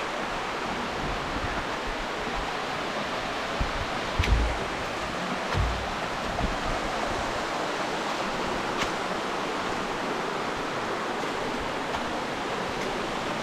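Steady rushing of a waterfall close by, with two brief low thumps about four and five and a half seconds in.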